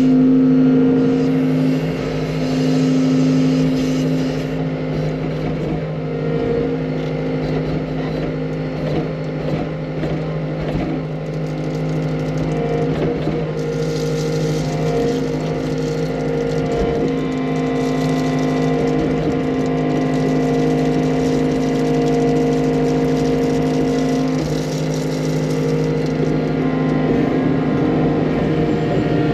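Skid loader engine running steadily at a constant speed, a low continuous hum.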